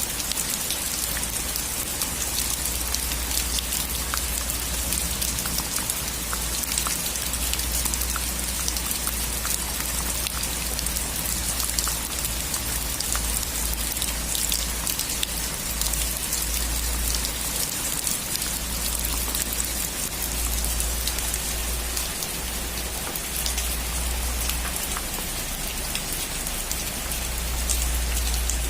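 Steady rain falling on a roof, with many individual drops ticking through a dense hiss and a low rumble underneath.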